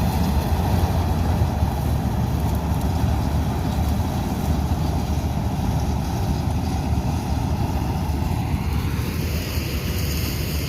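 Combine harvester running: a steady, heavy engine and machinery rumble, with a higher whine that climbs near the end.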